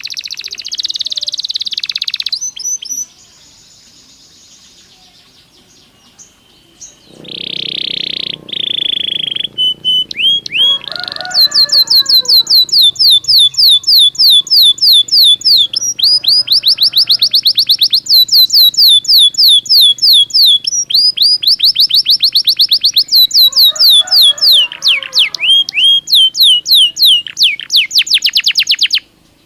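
Belgian canary singing: phrases of fast trills, each a rapid run of repeated notes sweeping down in pitch, after a buzzy opening phrase and a short quieter pause a few seconds in. The song breaks off abruptly near the end.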